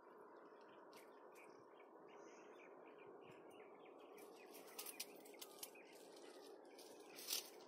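Faint outdoor ambience with small birds chirping now and then. From about halfway, a few brief rustling noises come in, the loudest near the end.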